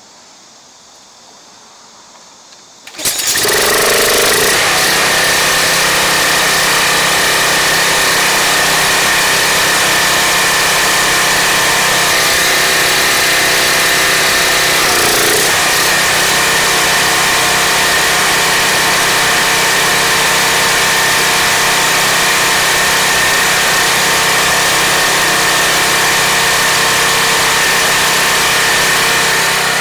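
Briggs & Stratton 175cc engine on a Craftsman 2700 PSI pressure washer starts about three seconds in and runs loud and steady at constant speed, with no load on the pump: it now starts and keeps running instead of dying.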